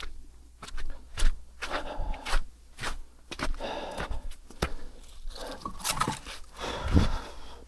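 Irregular knocks and scrapes with crunching sounds, several short sharp clicks among them.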